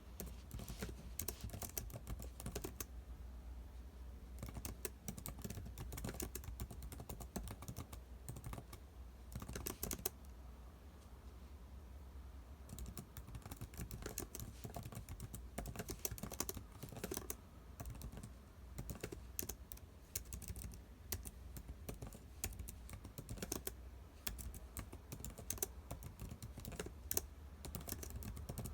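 Typing on a computer keyboard: uneven runs of key clicks with short pauses, one a few seconds in and another near the middle, over a low steady hum.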